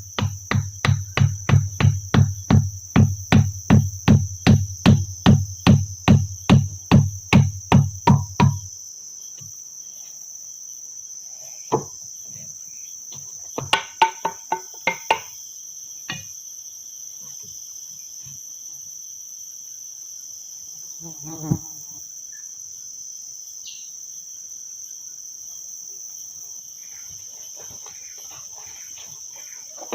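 A run of heavy, evenly paced knocking strikes, about three a second, that stops about eight seconds in, over a steady high-pitched drone of insects. A few scattered knocks and clatters follow.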